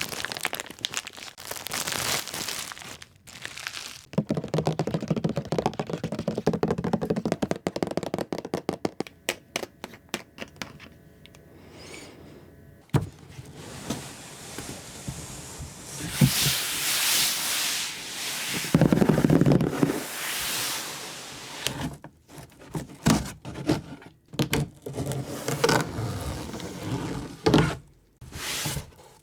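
Doll packaging being handled and opened: a run of scrapes, knocks and thunks with some crinkling of plastic and cardboard, and a sharp click about 13 seconds in.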